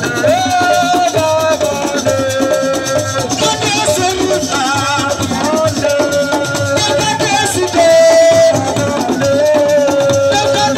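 Live Senegalese assiko music: a wavering lead melody, likely a singing voice, over dense, steady hand percussion and shakers.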